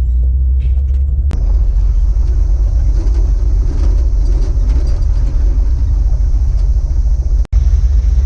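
Steady low rumble of a first-generation Dodge Ram pickup driving on a gravel road. There is a sharp click about a second in and a brief cut-out near the end.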